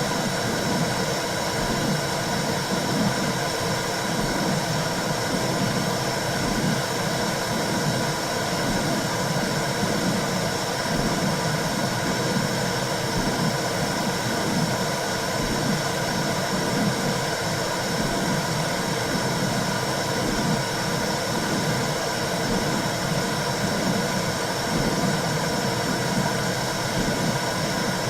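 Womb sound for soothing a newborn: a steady low whooshing noise with a slow rhythmic pulse about once a second, like blood flow and a heartbeat heard from inside the uterus.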